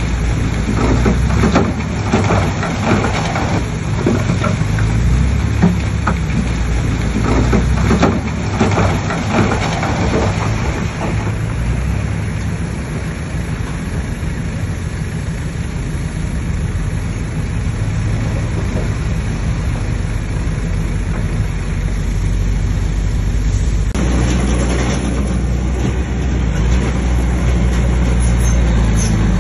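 Heavy diesel engine of a bulldozer running under load, with a dense crackling clatter of stones and rock being pushed for the first third or so. About two-thirds of the way through the engine note steps up and grows louder.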